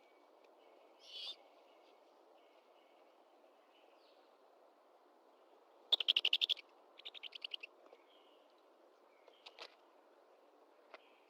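Bird calls: a short high call about a second in, then two quick chattering series of rapid pulses around six and seven seconds in, and a few faint clicks near the end.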